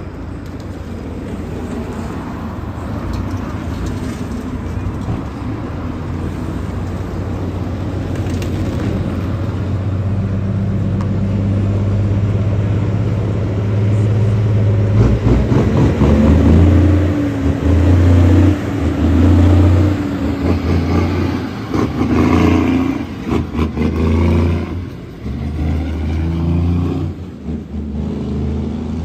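A motor vehicle's engine runs with a steady note that slowly grows louder, then, about halfway through, is revved hard in repeated surges, rising and falling again and again.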